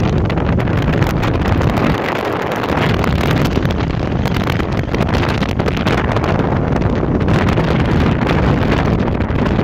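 Strong mountain-summit wind blowing hard across the camera microphone: a loud, continuous rumbling buffet, gusting up and down.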